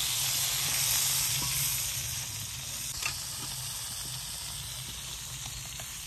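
Pieces of liver (kaleji) frying in hot ghee on a tawa griddle: a steady sizzle as the water in the meat cooks off, easing a little after about two seconds. There is a single light click about halfway.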